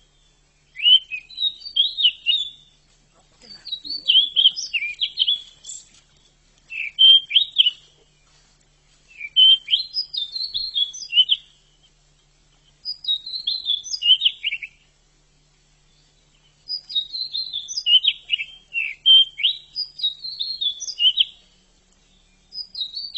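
Pied bushchat (decu) singing: short, rapid warbled phrases, each a second or two long, repeated about seven times with brief pauses between.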